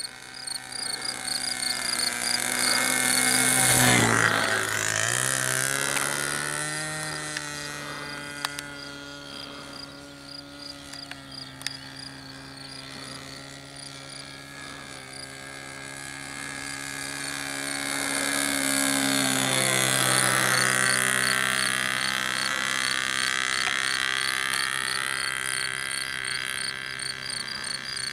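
Nitro glow engine of a 1.73 m RC Cessna 177 model plane flying past twice. On each pass it grows louder and its pitch drops as it goes by, about four seconds in and again around twenty seconds in.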